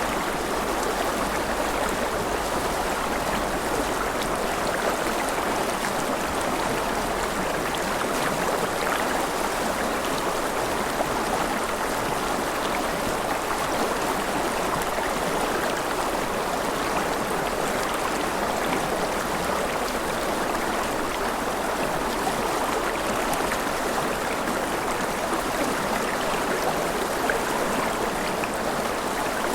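River water flowing steadily over rocks, an even rushing with fine splashing and no change in level.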